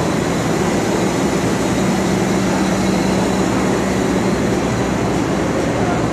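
New York City subway train running in a station: a steady, loud rumble, with a low hum setting in about two seconds in.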